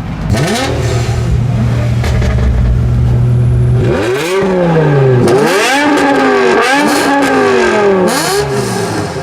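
Car engine idling with a steady low hum, then revved about five times in quick succession in the second half.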